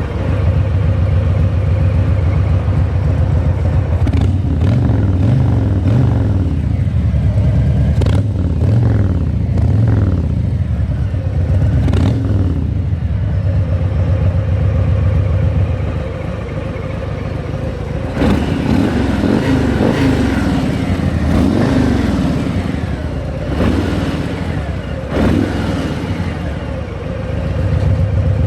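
Harley-Davidson Fat Boy's Milwaukee-Eight 114 V-twin running through a Jekill & Hyde exhaust: a deep, loud rumble at idle, revved up and let fall back again several times.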